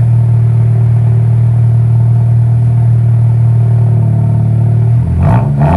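Car engine running with a loud, steady low drone; its pitch shifts near the end.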